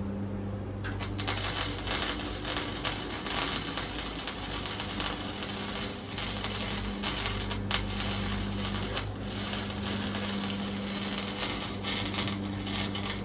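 Electric welding arc crackling and spitting in a long continuous bead on the thin sheet-metal floor of a 1955 Chevy truck, starting about a second in and stopping near the end.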